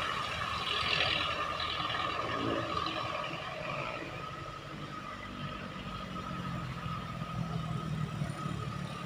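A truck engine running, with a thin steady high tone held through most of it.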